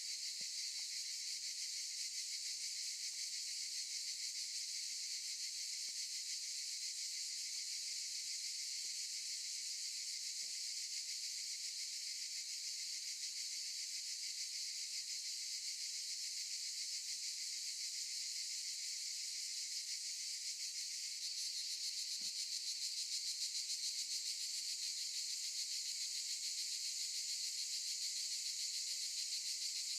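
Chorus of cicadas buzzing steadily: a dense, high-pitched drone, growing slightly louder about two-thirds of the way through.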